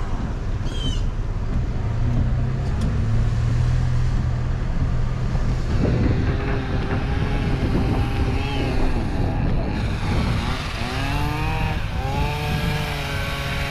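Steady car engine and road noise heard from inside a moving car. From about six seconds in, a second engine joins, its pitch rising and falling as it revs.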